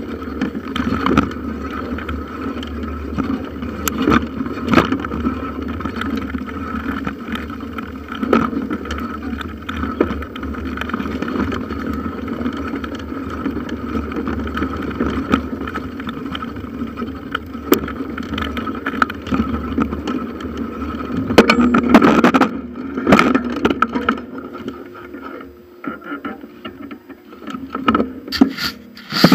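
Bicycle rolling over a forest trail, heard from a handlebar-mounted camera: steady tyre and drivetrain noise with frequent knocks and rattles from bumps. About 22 seconds in comes a loud burst of clatter, after which the bike slows and the sound dies down.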